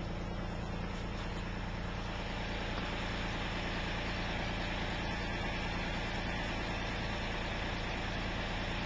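A vehicle engine idling steadily at an even, unchanging pitch.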